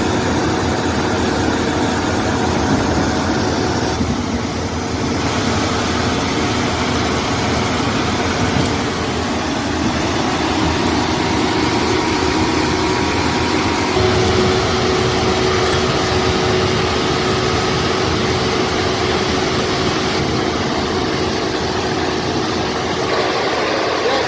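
Excavator engine running steadily under load, a constant mechanical rumble with a steady hum, shifting slightly about five and fourteen seconds in.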